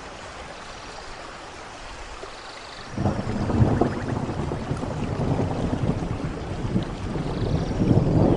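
Steady rain falling, then about three seconds in thunder breaks out: a sudden crack followed by a long, low rumble of thunder that grows louder toward the end.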